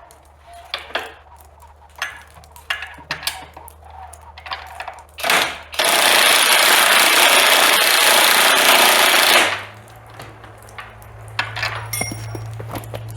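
Handling clicks and knocks, then a cordless power tool runs loud and steady for about three and a half seconds before stopping abruptly, as a bolt or bit is driven into the sawmill carriage's wooden boards.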